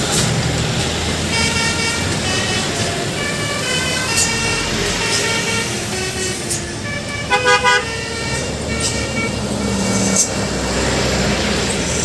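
Truck 'basuri' multi-tone horn playing a melody in stepped notes, with a short run of louder quick notes about seven and a half seconds in, over the low running of the truck's engine.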